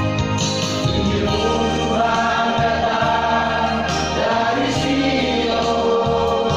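A vocal group, several voices singing a gospel song together, over instrumental backing with sustained bass notes.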